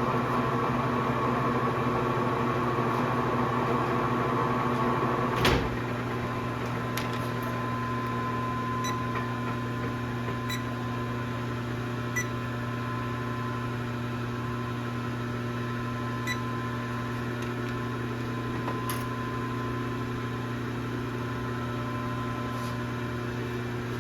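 1966 LeBlond geared-head lathe running with a steady hum. A sharp click about five and a half seconds in, after which it runs a little quieter, with a few light ticks later.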